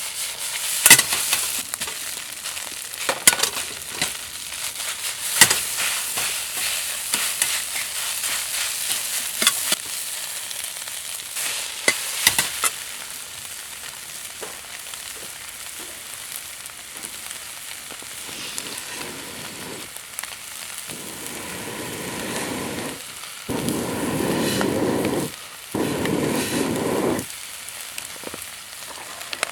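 Fried rice sizzling in a Chinese wok over a wood fire, with a spatula clanking and scraping against the wok through the first half. A fuller rushing noise comes in twice near the end.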